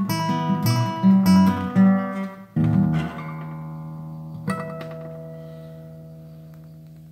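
Acoustic guitar music, plucked and strummed, that ends on a final chord left to ring. A last stroke comes about four and a half seconds in, then the chord fades slowly.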